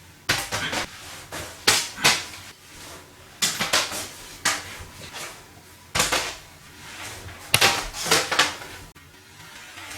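Paper airplane being handled: several short, sharp paper rustles and crackles, irregularly spaced, with a quieter stretch near the end.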